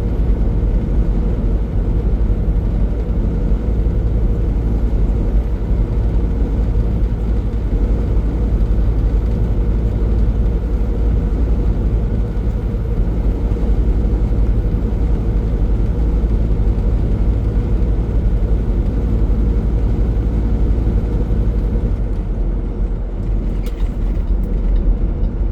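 Semi-truck cab interior at highway speed: a steady engine drone and road noise, heavy in the low end, with a constant hum.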